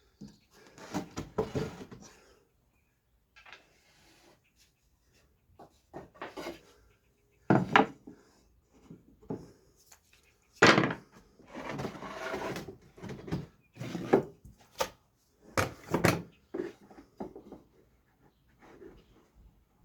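Wooden trim pieces being handled and fitted on a workbench: irregular knocks and scraping of wood on wood, with several sharp, loud knocks scattered through.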